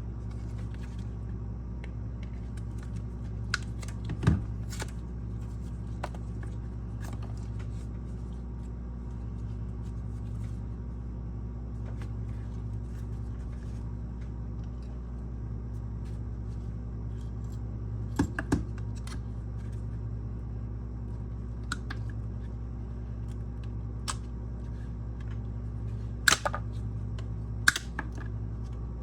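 Scattered sharp clicks and snaps of small plastic parts being handled, the loudest about four seconds in, twice near 18 seconds and twice near the end, over a steady low hum.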